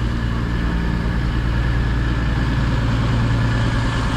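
Class 221 Super Voyager diesel-electric multiple unit idling at the platform, its underfloor diesel engines giving a steady low hum.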